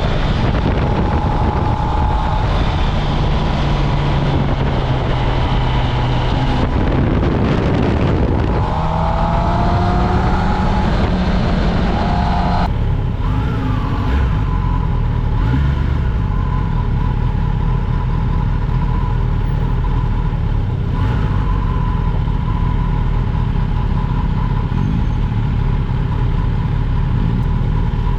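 Inline-four engine of a 2024 Kawasaki Ninja ZX-10R with the stock exhaust, heard while riding under wind noise. Its pitch climbs a little before the midpoint. About halfway through, the hiss falls away suddenly and the engine settles to a steady, even note.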